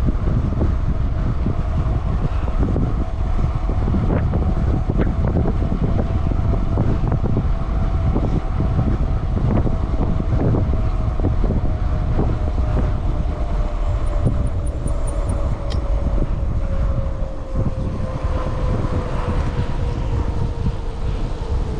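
Wind buffeting the microphone on a moving mountain bike, a loud steady rumble with scattered knocks. Under it runs a thin hum that slowly lowers in pitch.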